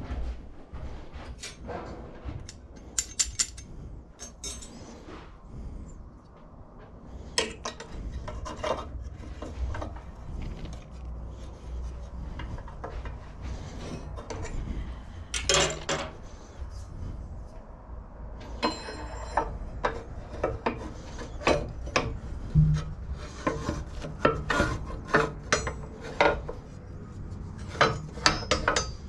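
Irregular metallic clicks, knocks and scraping of hand tools and parts being handled during work on a lawnmower's front height adjuster, over a low steady hum.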